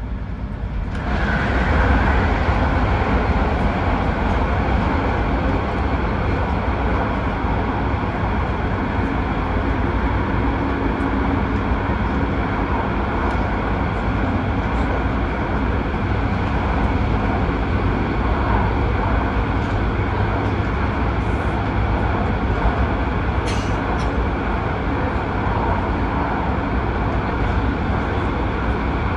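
Cabin noise of an MTR Airport Express electric train running at speed: a steady rumble of wheels on rail and rushing air. It grows louder about a second in as the train enters a tunnel.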